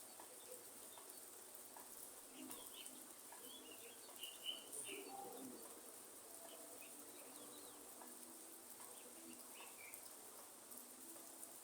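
Quiet rainforest ambience: scattered short bird chirps and calls, the loudest about four and a half seconds in, over a faint steady hiss of light rain.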